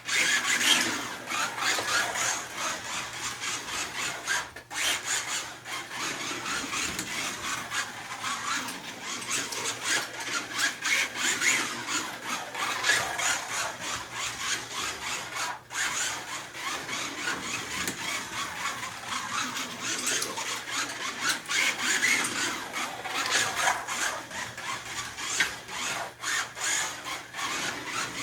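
Slot car (a Camaro) running laps on a home track: a continuous whirring and rasping of its small electric motor and of the car on the track, swelling and fading as it goes round. The sound drops briefly twice, about five and sixteen seconds in.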